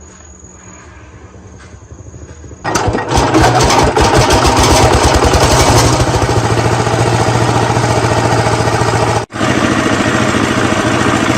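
D24 diesel engine starting about three seconds in: rapid separate firing beats that within a second or so merge into a steady, loud run.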